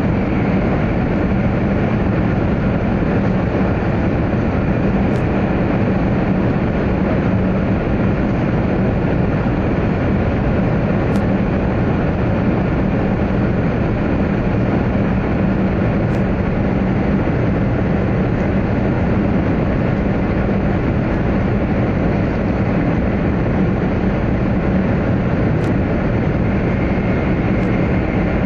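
Steady running noise of a 100 series Shinkansen at speed, heard from inside the passenger car while it runs through a tunnel: an even, unbroken din with a steady low hum.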